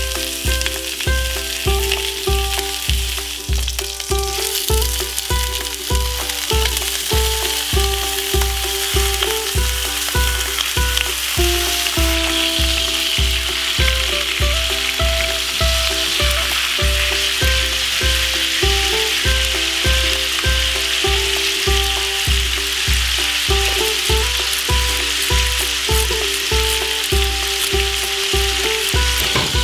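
Chicken pieces sizzling as they fry in a cast-iron skillet, the sizzle growing louder a few seconds in. Background music with a steady beat of about two a second plays over it.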